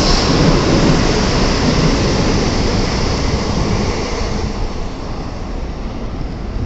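N700A-series Shinkansen train pulling out past the platform: a loud, steady rushing and rumble of wheels and motors that fades about four seconds in as the last car clears the platform and the train moves off.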